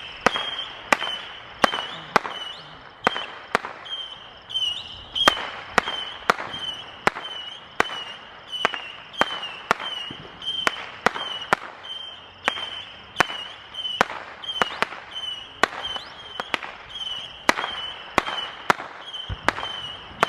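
Fireworks going off in a rapid, fairly regular series of sharp bangs, about one and a half a second, with a steady high tone running behind them.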